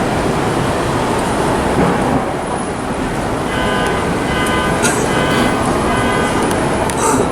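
Subway train running with a loud, steady rumble. From about the middle, a high-pitched tone sounds in four short pulses, and near the end there is a brief click.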